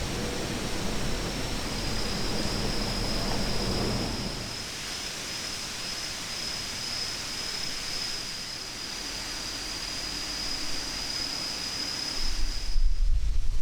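Outdoor ambience: an even hiss with a thin, steady high-pitched tone through most of it. Near the end the hiss drops away and a low rumble comes in.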